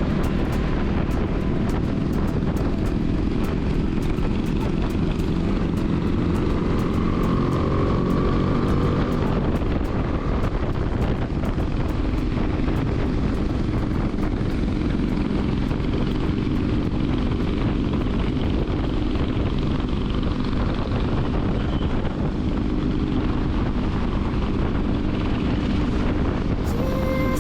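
Motorcycle engine running steadily at riding speed under a constant rush of wind and road noise.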